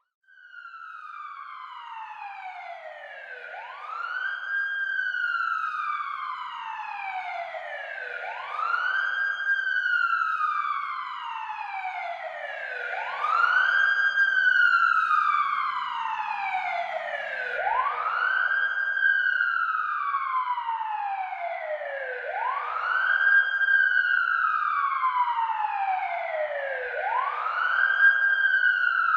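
Police siren in wail mode: a tone that rises quickly, holds briefly at the top, then falls slowly, repeating about every four and a half seconds. It fades in over the first few seconds.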